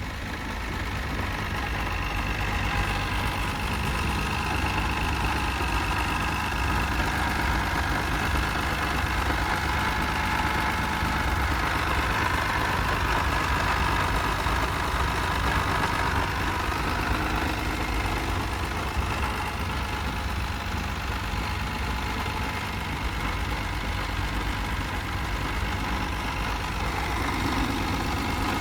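Fiat Dino 2400 Coupe's 2.4-litre V6 idling steadily at operating temperature.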